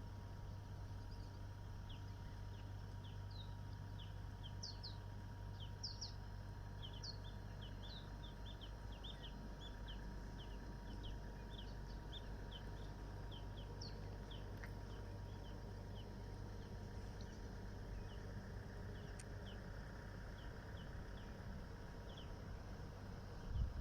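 Small birds chirping: many short, high, quick chirps, thickest in the middle, over a steady low rumble. A low thump right at the end.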